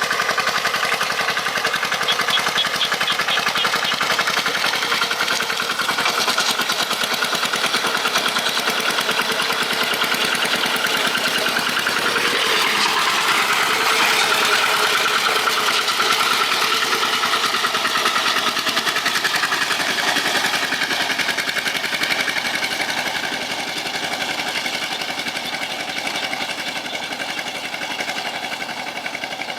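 Tractor engine running steadily with a rapid chugging beat. The note shifts a little about halfway through and eases slightly near the end.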